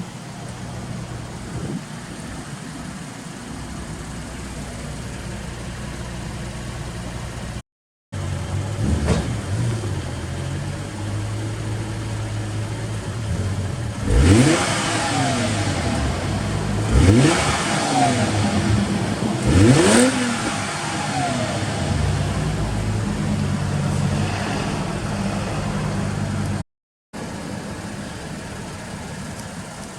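Supercharged 2.5-litre V6 of a Toyota Mark X 250G with an HKS supercharger and HKS muffler, idling, then revved in three quick throttle blips about three seconds apart, each rising sharply and falling back to idle. The idle cuts out to silence twice for a moment.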